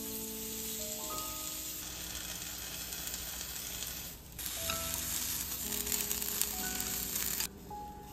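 Lotus root slices sizzling in hot sesame oil in a frying pan as they are stir-fried, with wakame in the pan in the second stretch. The sizzle breaks off briefly about four seconds in and stops shortly before the end, over soft background music notes.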